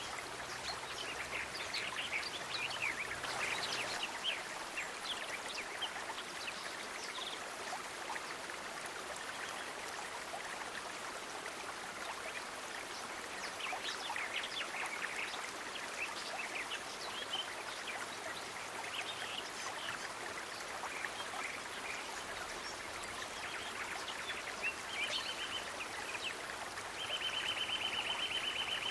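Steady running-water ambience, like a small stream trickling, with many short high chirps or ticks scattered through it. A rapid high trill comes in twice near the end.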